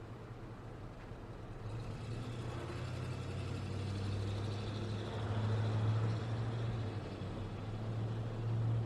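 Road traffic passing, with a low engine hum and tyre noise swelling as a vehicle draws near. The sound is loudest a little past the middle and again near the end.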